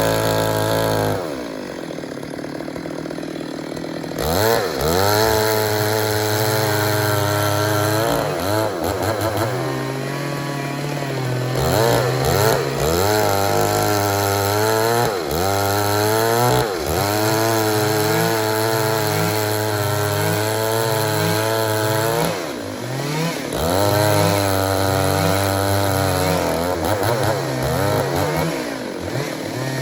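Stihl MS 382 two-stroke chainsaw cutting wood, its engine pitch sagging under load and climbing back again and again as the chain bites and frees. About a second in it drops to a lower, quieter speed for a few seconds before revving up again.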